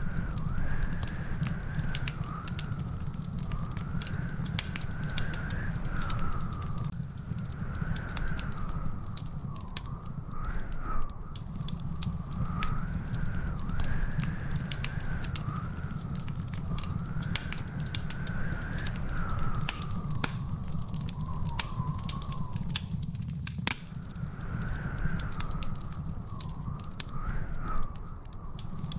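Wood fire crackling with frequent sharp pops over a steady low rumble. A thin whistle wavers slowly up and down throughout.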